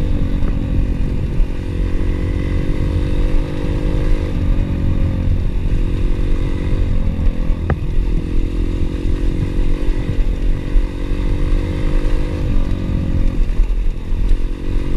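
Pit bike engine running under way, its pitch stepping down and up a couple of times as the revs change. A single sharp click partway through.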